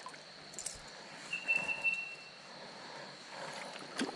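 Creek-side bush ambience with a faint steady high hum. A single drawn-out whistled bird note, about a second long, comes a second and a half in, and there is a sharp click near the end.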